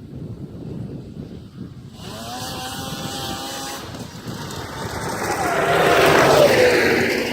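Polaris Edge X snowmobile's two-stroke engine on its stock exhaust, starting up to speed about two seconds in and growing louder to a peak near the end, with its pitch sliding down as it eases off or goes past.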